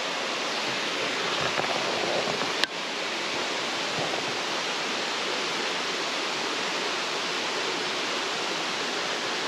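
Water pouring steadily over a creek cascade into a pool, an even rush of noise, with one sharp click about two and a half seconds in.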